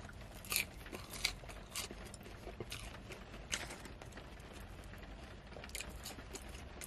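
Close-up eating sounds of curly fries being bitten and chewed: scattered short crunches and mouth clicks over a faint steady background hiss.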